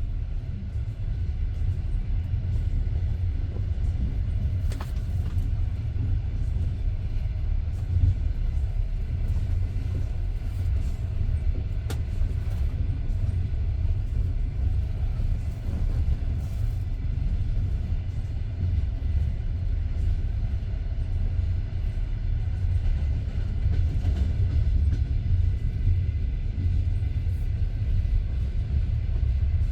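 Passenger train running along the track, heard from inside the carriage: a steady low rumble of the wheels and running gear, with an occasional sharp click or knock from the rails.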